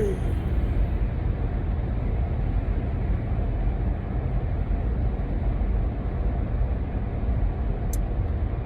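Steady low rumble of motor-vehicle noise with no change in pitch, and a single short click about a second before the end.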